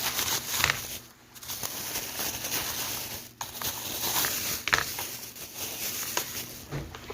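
Crinkling and rustling of packaging being handled, with a few sharp clicks and brief pauses.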